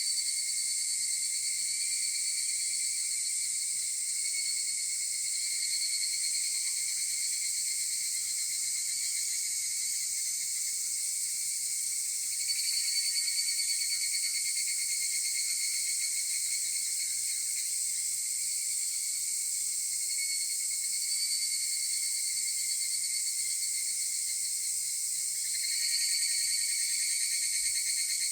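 A chorus of higurashi (evening cicadas, Tanna japonensis) calling in overlapping high, shimmering trills. The calls swell louder about halfway through and again near the end as new callers join in.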